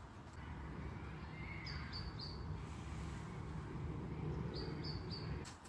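Outdoor park ambience: a small bird gives a quick run of three short high chirps twice, over a low steady rumble.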